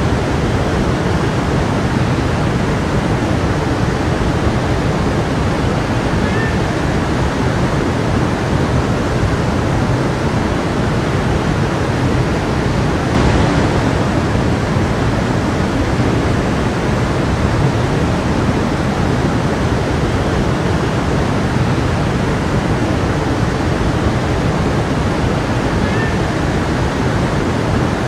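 A stream of water rushing and splashing in a steady, unbroken flow.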